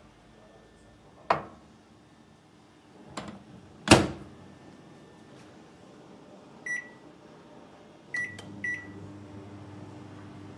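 Samsung MG22M8254AK built-in grill microwave being worked: a few sharp clunks of its door, the loudest about four seconds in, then three short beeps from its controls, after which it starts running with a steady low hum.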